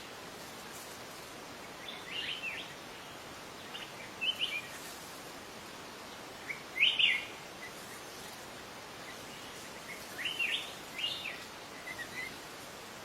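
Wild birds chirping in short phrases of a few quick notes every couple of seconds, the loudest about seven seconds in, over a steady background hiss.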